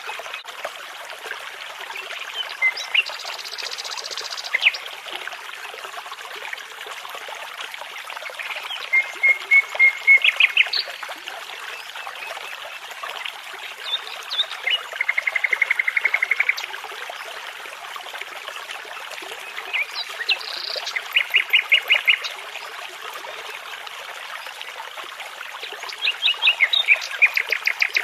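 Nightingale singing in separate phrases a few seconds apart, each a fast run of repeated notes or a trill, over the steady rush of a babbling brook.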